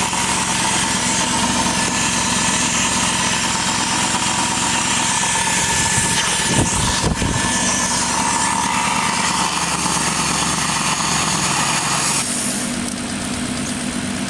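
BMW 540i V8 idling on its first start after new timing-chain guides, with the secondary air pump running over it as a steady whine and hiss. About 12 seconds in the pump cuts off, leaving the engine idling on its own. A few knocks sound near the middle.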